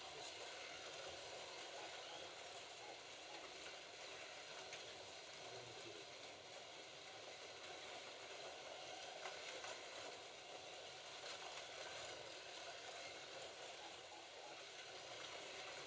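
Slot cars lapping the track: a faint, steady whirring hiss with a few small ticks.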